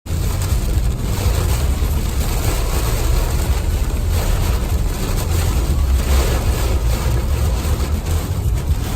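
Steady low rumble with an even hiss of a truck on the move, heard from inside the cab, starting abruptly.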